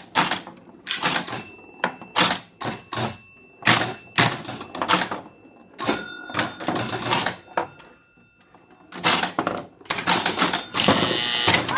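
1952 Gottlieb Chinatown electromechanical pinball machine in play: rapid, irregular clacks and knocks of flippers, bumpers and relays, with a bell-like ringing after some hits. It goes quieter for a moment about eight seconds in, then a dense clatter comes near the end.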